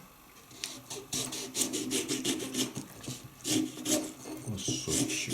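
Knife cutting a lemon slice with short back-and-forth sawing strokes.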